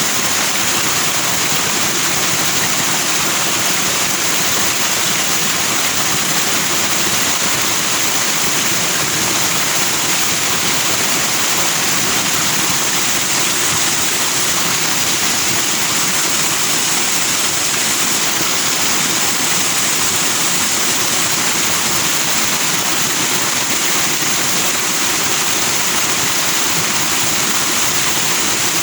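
Fast-flowing forest stream rushing and splashing over rocks with white foam, a steady, unbroken hiss of water.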